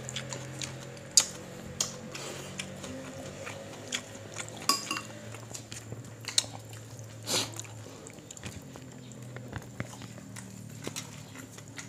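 Close-up eating sounds of people eating rice and fried fish by hand: chewing, lip smacks and mouth clicks, with a few louder sharp clicks scattered through, over a faint steady low hum.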